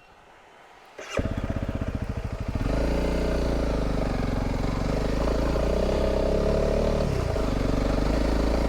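Honda CRF300 Rally's single-cylinder engine cuts in about a second in with a slow, even idle beat, then runs louder and steadier from about three seconds in as the motorcycle rides.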